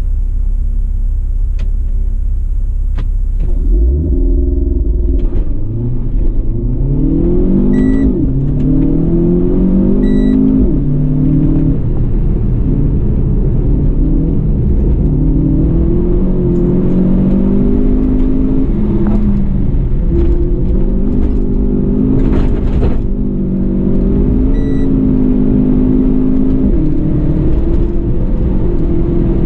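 Renault Clio Mk4 220's turbocharged 1.6-litre four-cylinder engine, heard from inside the cabin. It idles for about four seconds, then the car launches and the engine pulls hard up through the gears, its pitch climbing and dropping back at each upshift. After that the engine note rises and falls with the throttle through the corners.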